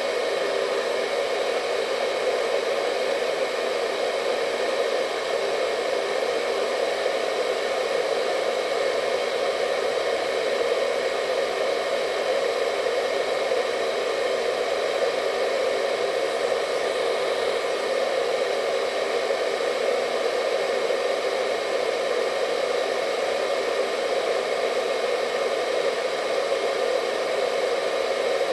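Hair dryer running steadily: an unchanging airy rush with a faint motor whine.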